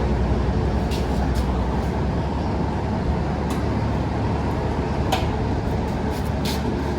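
Steady low rumble of a running vehicle, with a few brief light clicks.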